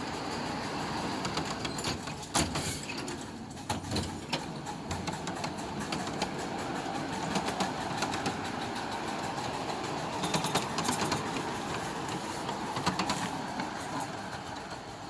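Live-steam miniature train running on its track: a steady mechanical running noise with scattered sharp clicks and knocks.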